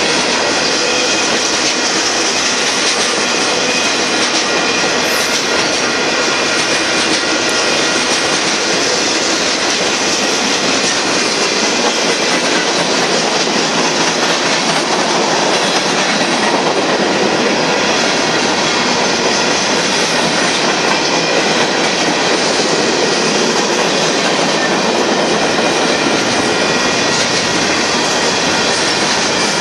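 Freight cars of a Union Pacific merchandise train rolling past, a loud, steady noise of steel wheels on rail that holds even for the whole stretch.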